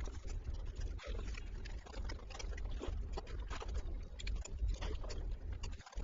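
Close-miked eating sounds: irregular wet chewing and mouth clicks over a steady low rumble.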